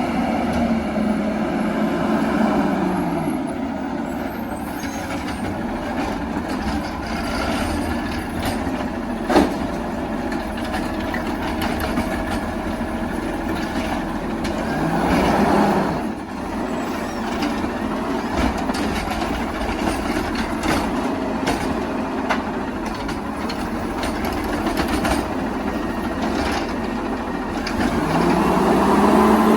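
Garbage truck engine running, its revs falling early on and rising again about halfway through and near the end. A single sharp bang sounds about nine seconds in.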